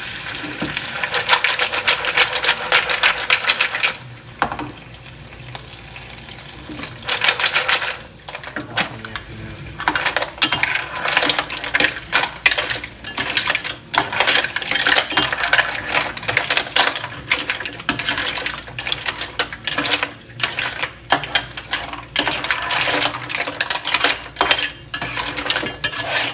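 Mussel shells clattering against each other and the pan as they are stirred, a rapid rattling of clicks in bursts with a few short pauses.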